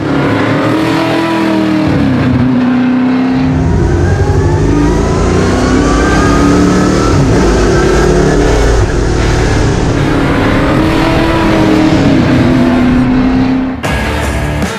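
Loud, race-built Ford 302 small-block V8 of a fastback Mustang race car accelerating hard. Its engine note climbs in pitch and drops back at each gear change, several times over.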